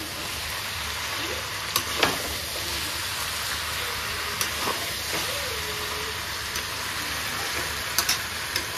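Chicken frying dry in masala in a pan, with no gravy, making a steady sizzle. A few sharp clicks of a spoon against the pan come through it.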